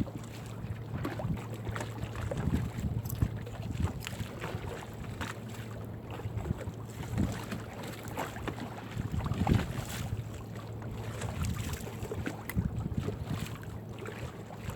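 A crab gill net being hauled and cleared aboard a small fishing boat: scattered, irregular knocks and clatter over a steady low hum.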